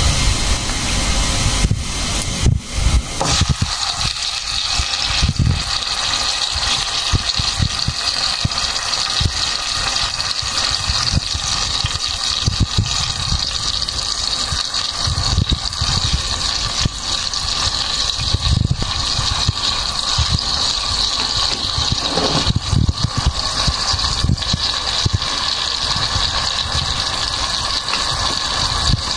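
Marinated chicken wings and gizzards frying in hot oil in a pot: a few knocks as the pieces go in during the first seconds, then a steady sizzling hiss.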